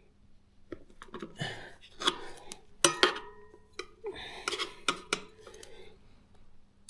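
Steel tyre lever clinking and scraping against a motorcycle wheel rim as the tyre bead is levered over it, with a brief metallic ring about three seconds in.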